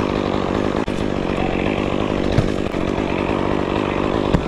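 Two-stroke chainsaw running steadily, with two sharp knocks, one about two and a half seconds in and one near the end.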